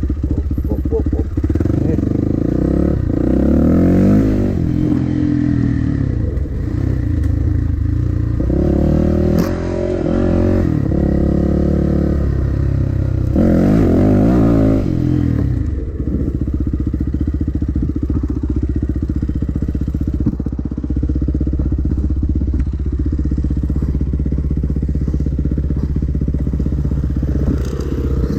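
Dirt bike engine riding a trail, the revs climbing and falling through three hard surges in the first half, then running steadier.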